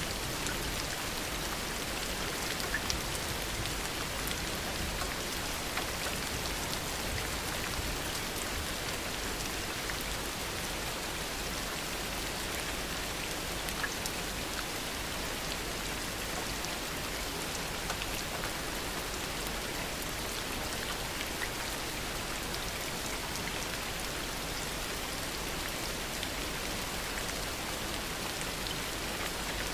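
Heavy rain falling steadily, an even rushing hiss with scattered sharp ticks of individual drops striking surfaces.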